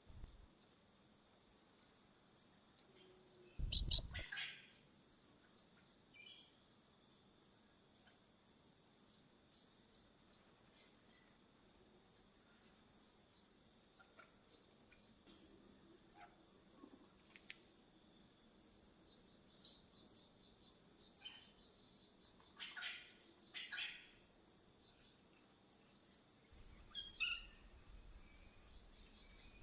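Outdoor birdsong: a high, thin chirp repeated steadily two to three times a second, with a few fuller bird calls later on. A sharp knock sounds about four seconds in.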